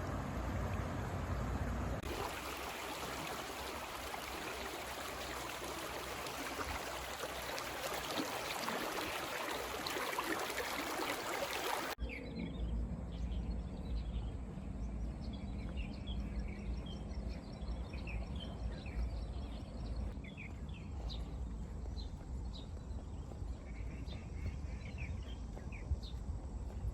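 Steady rush of creek water, then, after a sudden cut, many short bird chirps over a low rumble.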